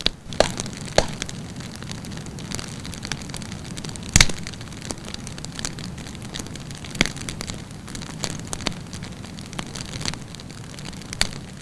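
Wood campfire burning with irregular sharp crackles and pops over a steady low hiss, the loudest pop about four seconds in.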